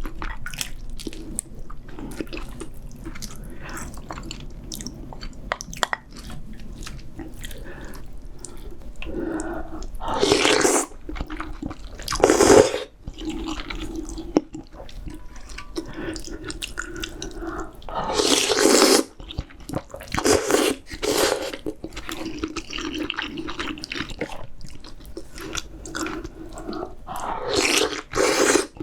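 Close-miked eating of spicy seafood ramyeon: wet chewing with many small smacking clicks, broken by several loud slurps of noodles or broth, each about a second long.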